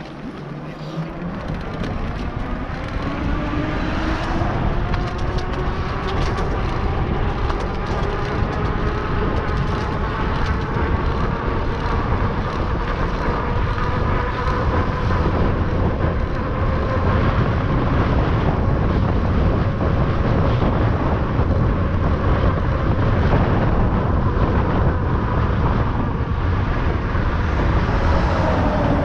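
E-bike's electric drive motor whining under throttle, its pitch climbing steadily for the first fifteen seconds or so and then holding as the bike gathers speed downhill. Wind rushes over the microphone, loud and growing with speed.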